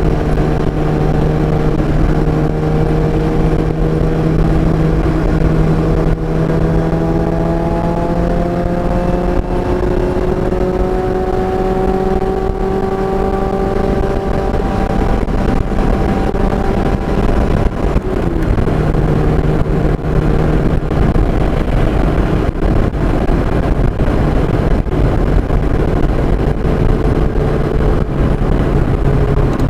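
Car engine under load on a race track. Its note holds steady, climbs gradually through the middle as the car accelerates, drops about two-thirds of the way through, then holds again, over heavy wind and road noise.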